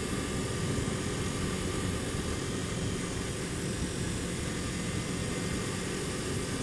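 Kawasaki Ninja 250 motorcycle's parallel-twin engine running at a steady cruise, mixed with steady wind and road noise on the rider's mic.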